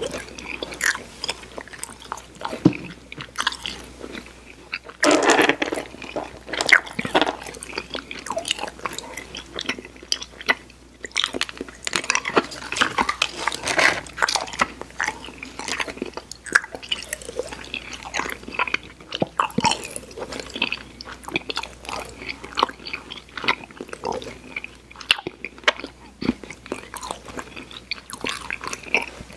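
Close-miked mouth chewing of Airheads chewy sour candy: a steady run of irregular wet clicks and smacks, with a louder burst of chewing about five seconds in.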